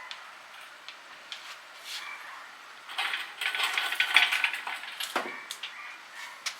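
Metal tools and parts clinking and clattering, with a busier stretch of rattling, ringing metal in the middle and scattered single clicks around it.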